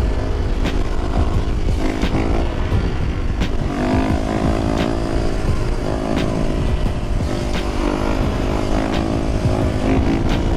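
Motorcycle engine running under way, its pitch rising and falling with the throttle, over heavy wind rumble on the microphone.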